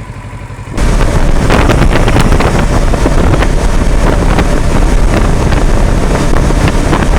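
Kawasaki Versys 650 parallel-twin engine idling, then about a second in loud wind buffeting on an action camera's bare microphone swamps it as the motorcycle rides off.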